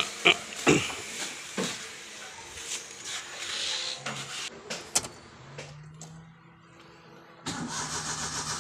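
A few sharp clicks and knocks, then about seven and a half seconds in the carbureted engine of a Daihatsu Charade starts promptly and settles into a steady run, a sign that its hard-starting problem is cured.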